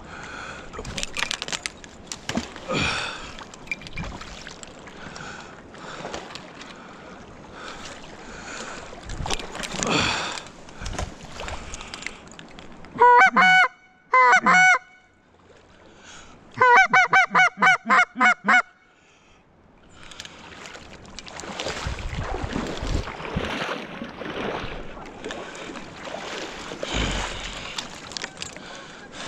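Goose honks: two loud honks about 13 seconds in, then a quick run of about ten short honks lasting about two seconds, set against rustling noise.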